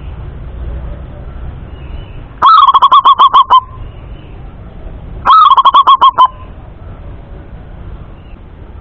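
Male zebra dove (perkutut) singing two loud, clear cooing phrases about three seconds apart. Each phrase opens on a higher note and drops into a quick run of about eight staccato notes.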